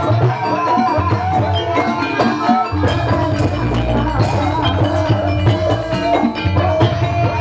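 Live gamelan music accompanying an ebeg dance: struck tuned percussion plays a busy melody over drums with a steady beat.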